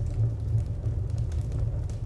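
Wood fire crackling, with scattered sharp pops over a low, steady rumble.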